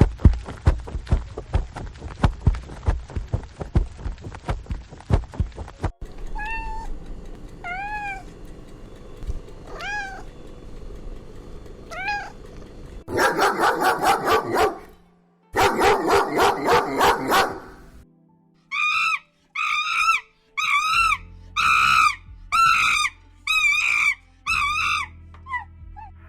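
A run of animal calls, largely cats meowing. It opens with several seconds of rapid clicking. Then come single rising-and-falling meows a second or two apart, two loud rough calls of about two seconds each, and near the end a quick series of about eight short, high-pitched mews.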